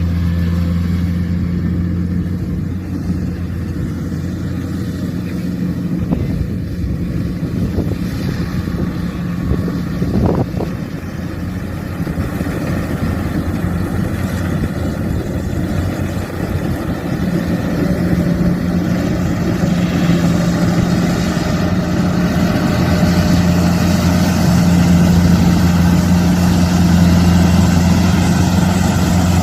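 Kubota combine harvester's diesel engine running at a steady speed under harvesting load. Its low hum eases for a stretch and grows louder again past the middle.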